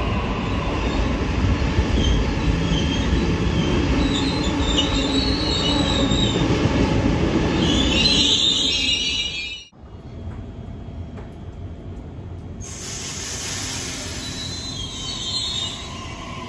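Sydney Trains double-deck electric train running along the platform: steady wheel and rail rumble, with high wheel squeal about four and eight seconds in. Near ten seconds the sound drops off abruptly to a quieter rolling rumble, with another brief squeal near the end.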